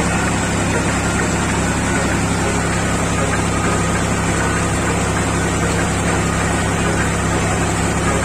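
Tractor engine running at a steady speed, a constant low hum with no change in pitch or level.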